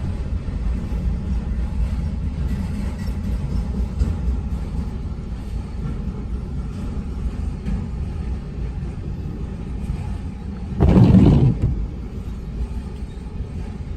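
Freight train passing with a steady low rumble, and a short loud burst about eleven seconds in.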